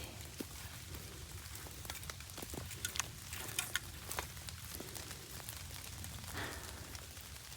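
Rain pattering: scattered raindrops tick sharply and irregularly over a steady low rumble.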